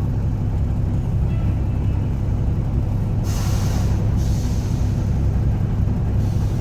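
Peterbilt 359 diesel engine idling with a steady low rumble. About three seconds in, a hiss of air from the air brakes is strongest for about a second, then trails off.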